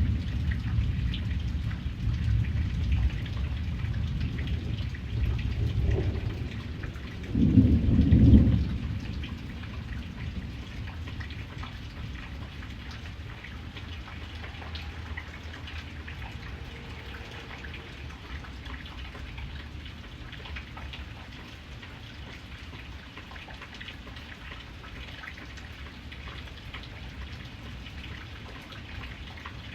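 Steady rain falling, with thunder rumbling through the first third and a loud peal about eight seconds in. The thunder then dies away, leaving the even hiss and patter of the rain.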